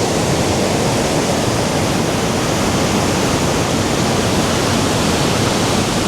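The Rhine Falls waterfall rushing loudly: a steady, even wash of falling water.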